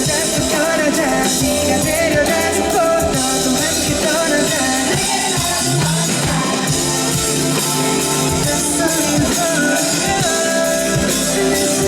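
Live pop-rock music through a concert sound system, a band with a voice singing over it.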